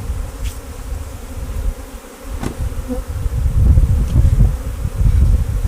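Honey bees buzzing around an opened hive during a frame inspection, with a low rumble throughout and one sharp knock about two and a half seconds in.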